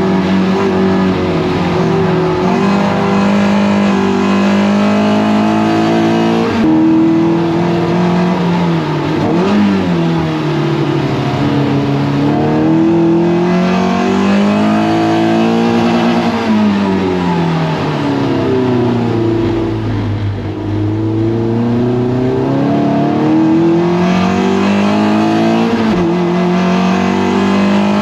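Toyota MR2 race car engine at racing speed, its pitch climbing under acceleration, dropping sharply at gear changes and sliding down under braking several times.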